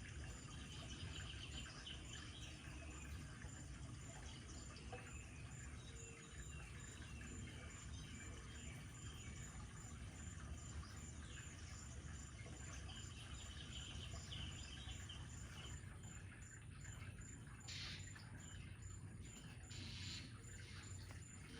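Birds chirping faintly, with insect trilling and a steady low hum beneath. Two short scratchy sounds come near the end.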